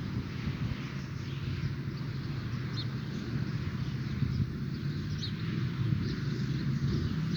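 Dawn woodland ambience: scattered faint, short bird chirps over a steady low rumble.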